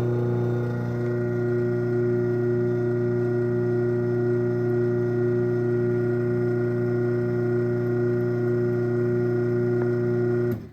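Craftsman 1/2 hp garage door opener's electric motor running steadily as it closes the door, a constant hum that cuts off suddenly near the end when the opener stops. It runs smoothly and is not very loud.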